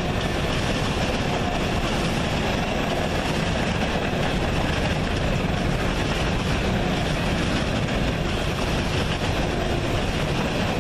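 A train rolling past: a steady rumble of railcar wheels on the track.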